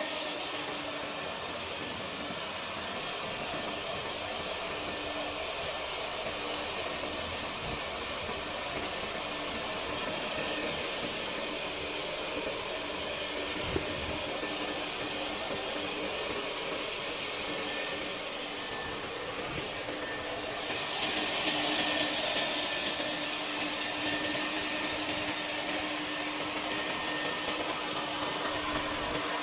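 Vacuum motor running steadily for lint cleaning, a constant hum under a rushing airflow hiss that grows brighter for a few seconds about twenty seconds in.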